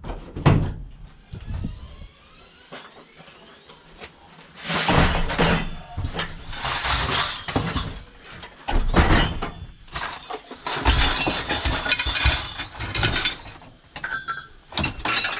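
Scrap metal being handled, with repeated clattering, knocks and clinks of hard objects against each other, loudest in stretches from about halfway.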